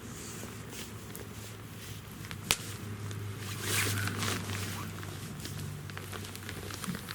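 Wood fire burning in a fire pit stand, crackling with scattered small pops and one sharp loud pop about two and a half seconds in. Around the middle comes a brief hissing rush, over a faint steady low hum.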